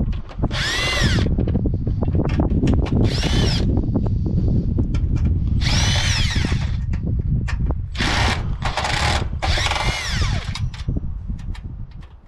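Cordless drill or driver run in about six short bursts, the motor whine rising and falling in pitch as the trigger is squeezed and let go, over a steady low rumble. It is backing screws out of the water cooler's panels.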